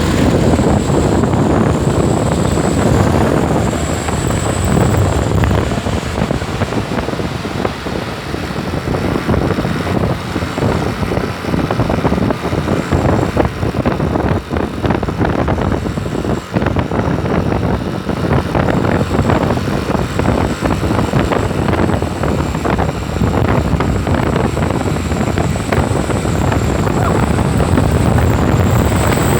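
Truck on the move: a loud, steady rumble of engine and road noise, with a thin high whine that comes and goes.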